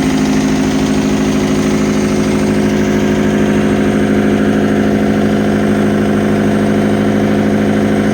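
Fiat Hitachi FH150 excavator's diesel engine running steadily at a low, even speed with a regular pulsing beat.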